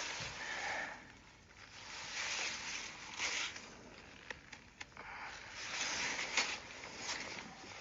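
Footsteps through wet snow, irregular noisy steps about once a second, with a few sharp ticks between them.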